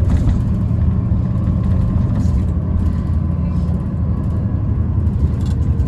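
City bus underway, heard inside the cabin: a steady low rumble of the drive and road with a faint steady whine over it, the abnormal motor noise this bus is known for. A brief knock right at the start.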